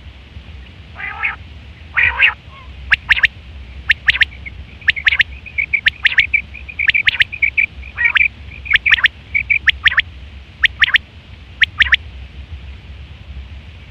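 Quail calling: two harsh, raspy calls, then a quick run of sharp, short whistled notes, about one or two a second, with a high trilling chatter between them. A steady low hum runs underneath.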